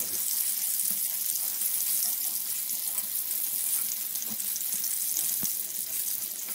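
Breaded eggplant pieces shallow-frying in hot oil in a pan: a steady sizzling hiss, with a couple of faint pops in the second half.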